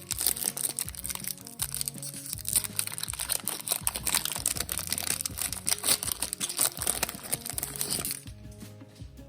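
Foil wrapper of a Pokémon TCG booster pack crinkling and crackling as it is torn open and handled, stopping about 8 seconds in. Background music plays underneath.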